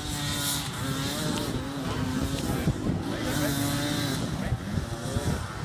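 Dirt bike engine running and revving, its pitch wavering up and down.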